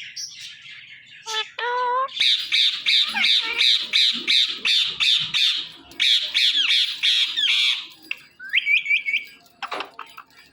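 Indian ringneck parakeet screeching in a long, rapid string of harsh calls, about four or five a second, with a short break midway. A few short rising chirps follow near the end.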